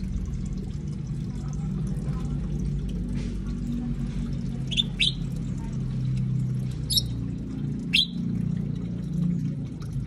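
A bird gives four short, sharp chirps: two in quick succession midway, then two more a second apart, over a steady low hum.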